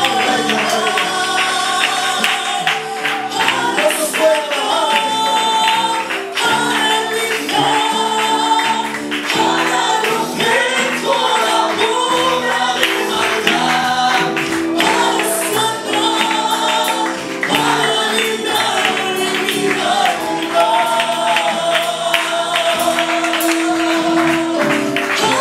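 A congregation singing a Spanish-language worship song together, with instrumental accompaniment and a tambourine keeping the beat.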